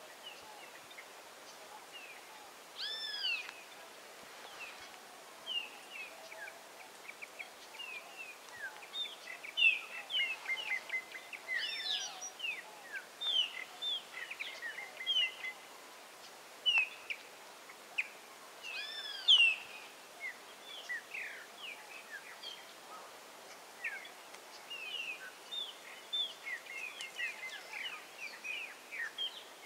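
Wild birds calling: many short chirps and whistles throughout, with a louder arching call that comes three times.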